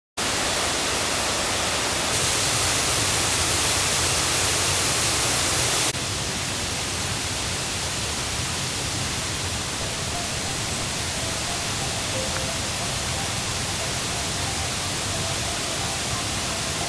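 Rushing water of a river swollen by the previous day's rain: a loud, steady rush with no pitch. It cuts in suddenly, turns brighter and hissier about two seconds in, and drops back to a duller rush about six seconds in.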